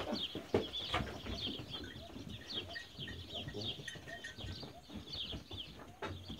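Birds chirping continuously in many short, quick, falling calls, with a few knocks, the loudest near the start and about a second in.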